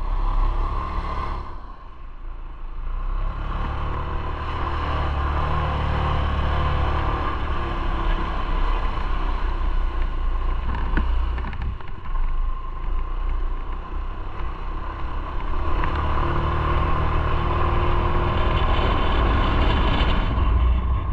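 Motorcycle engine running under way, with wind and road noise. It eases off about two seconds in, pulls harder from about four seconds, eases again around twelve seconds, and pulls again from about sixteen seconds.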